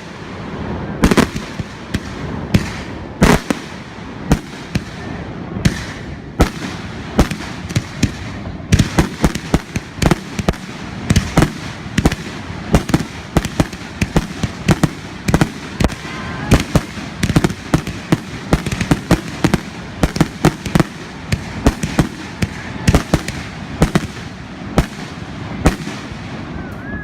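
Fireworks going off one after another: a long string of sharp bangs, spaced out at first and coming thick and fast from about a third of the way in.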